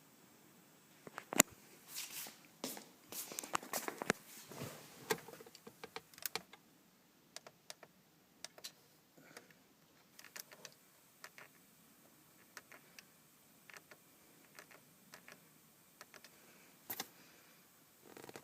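Faint scattered clicks and taps, like light handling of buttons or objects. The loudest click comes about a second and a half in; they are busiest over the first six seconds and then become sparse.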